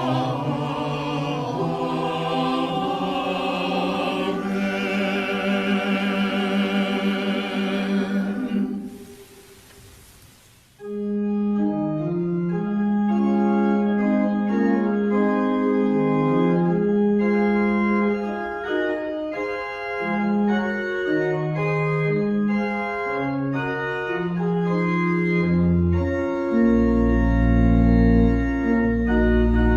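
Choir singing a closing response for about the first nine seconds, ending with a brief pause. Then an organ postlude starts: held chords moving note by note, with a deep pedal bass coming in near the end.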